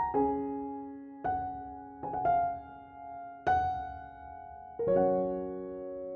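Slow, gentle piano music: single notes and small chords struck about once a second, ending on a chord that is held and fades.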